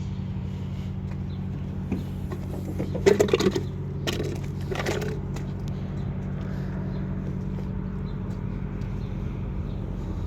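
A running machine's steady low hum, with brief handling noises about three and five seconds in.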